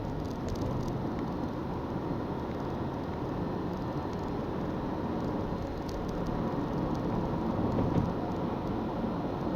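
Honda Freed's 1.5-litre petrol engine and road noise while cruising at a steady speed: an even, low hum with no change in pitch.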